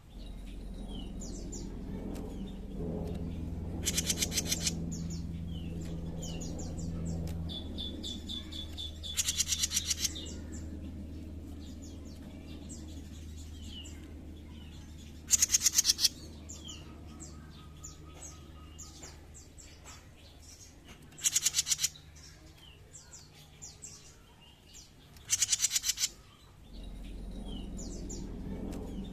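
Jenggot mini songbird singing: five loud, buzzy rattling trills about a second long, spaced every five or six seconds, with short high chirps and whistled notes between them. A steady low hum runs underneath.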